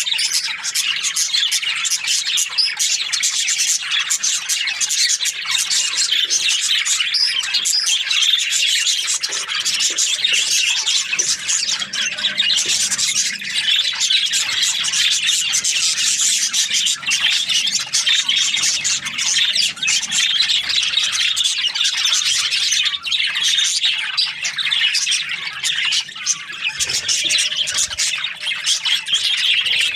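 A flock of budgerigars chirping and chattering continuously, many high squawks and warbles overlapping without a break.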